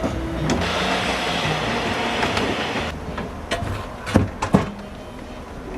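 Thickness planer running and planing a wooden board: a steady, loud cutting noise for about three seconds, then a few sharp knocks of wood being handled.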